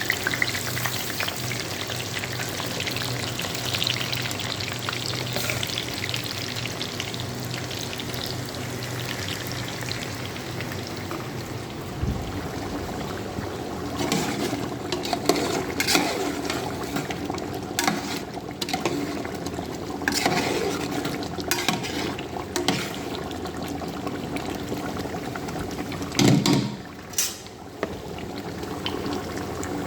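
Food sizzling as it fries in ghee and oil in a cooking pot, a steady hiss; from about halfway through, a utensil knocks and scrapes against the pot as the food is stirred, with one louder clatter near the end.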